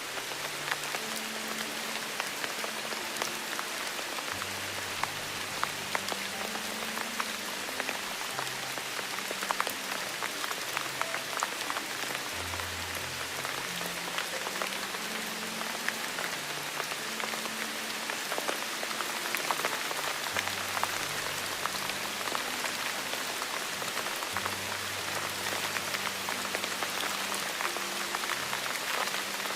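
Steady rain with many close, distinct drop hits, over soft low sustained background tones that shift in pitch every few seconds.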